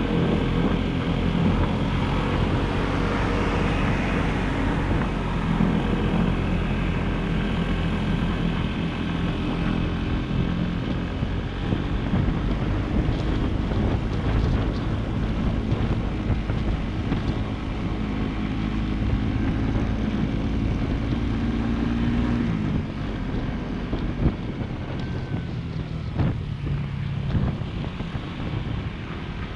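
Small motorcycle engine running steadily while riding, with wind buffeting the microphone. About two-thirds of the way through, the engine note changes and drops slightly.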